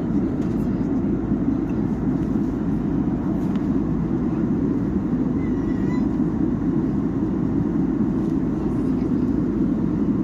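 Steady low drone of an airliner cabin in flight: engine and airflow noise at an even level throughout.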